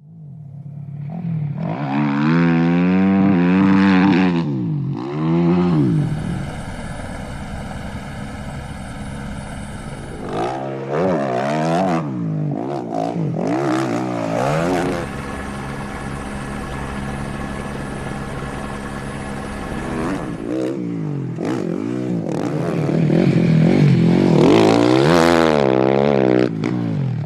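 KTM 450 rally motorcycle's single-cylinder engine revving up and down again and again, with two longer stretches held at steady high revs. It is loudest near the end.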